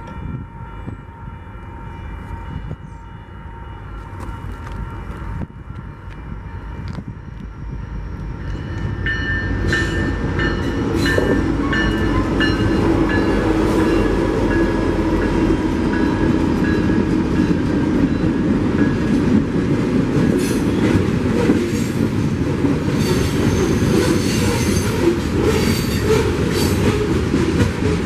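A train approaching and passing. A horn sounds at first in steady tones, then the train's rumble builds over several seconds and stays loud, with wheels clattering and squealing on the rails.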